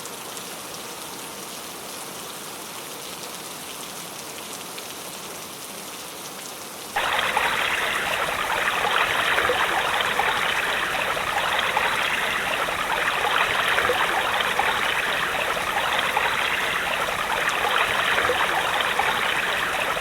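Steady rushing water, a even hiss with no tones in it, which jumps abruptly louder about seven seconds in.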